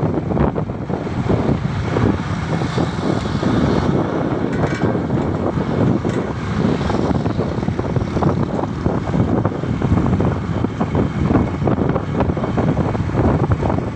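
Motorcycle running steadily on the move, with wind buffeting the microphone.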